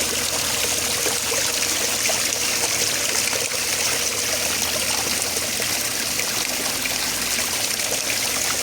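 Water trickling steadily over a small homemade sand-and-cement waterfall.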